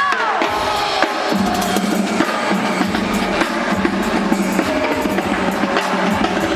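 Drums playing a dense, steady rhythm over backing music.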